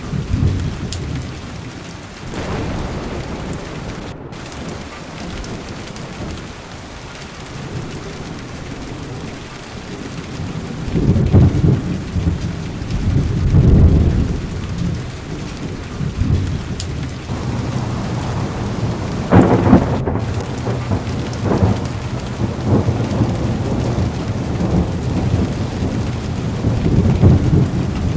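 Heavy rain falling steadily with rolling thunder. Low rumbles swell up partway through and twice more later, and the later ones are the loudest.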